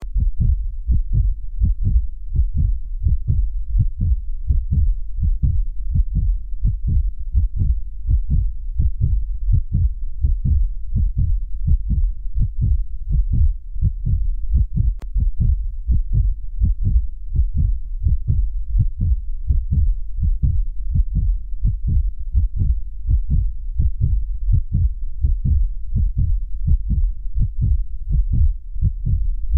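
A continuous, uneven series of low, dull thuds, about two to three a second, with nothing high-pitched in them.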